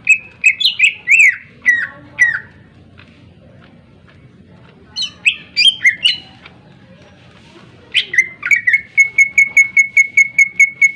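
Greater green leafbird (cucak ijo) singing loud whistled phrases with sliding notes, in three bursts; the last ends in a fast run of short repeated notes on one pitch, about six a second.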